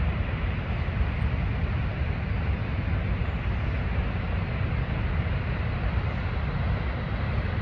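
Niagara Falls: a steady, unbroken rush of falling water, heaviest in the low rumble.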